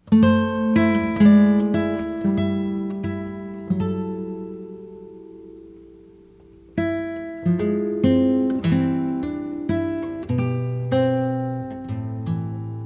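Background music on plucked guitar: a slow run of single notes and chords, a chord left ringing and fading out for a couple of seconds midway before the playing resumes.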